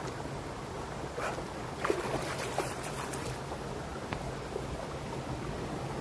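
Steady outdoor noise on the trail, with a few light knocks and rustles near two seconds in.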